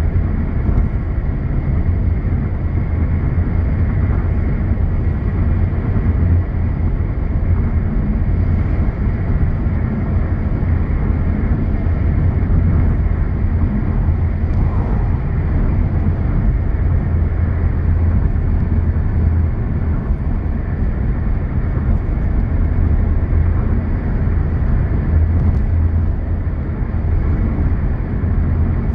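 Steady low rumble of road and wind noise from a car driving.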